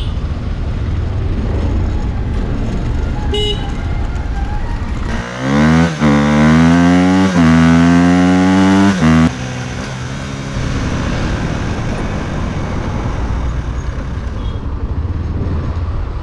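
Motorcycle riding with steady road and wind noise; about five seconds in the engine revs up loudly, its pitch climbing, dropping back at two gear changes and climbing again, until the throttle shuts off abruptly around nine seconds in.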